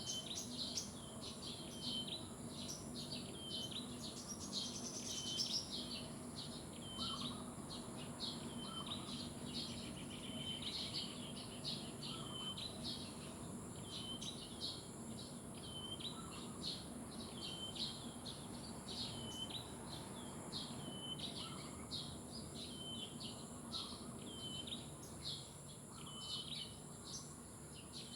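Small birds chirping, a short call repeated about once a second, over a steady high-pitched insect drone.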